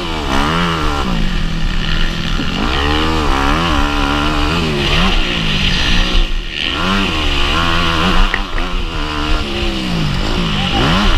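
Motocross bike engine running hard, its pitch climbing and falling back over and over as the throttle is opened and chopped.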